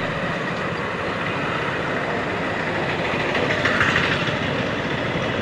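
Steady road and wind noise from a motorcycle ride through traffic, an even rushing sound with no clear engine note standing out.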